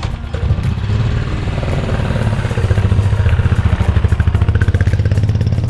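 Royal Enfield Desert Storm 500's single-cylinder engine running as the motorcycle is ridden, a steady, rapid, even beat of firing pulses.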